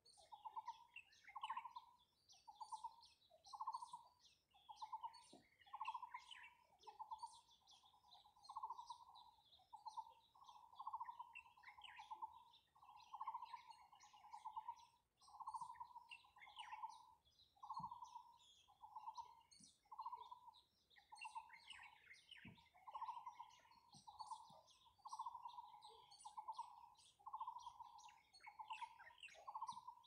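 Faint birdsong: scattered high chirps over a lower rattling note that repeats about once a second.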